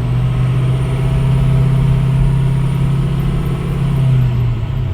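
2006 Ford F-350's 6.0 L Powerstroke V8 turbodiesel running steadily, with a strong low drone, after a broken high-pressure oil system O-ring that had caused a no-start was replaced.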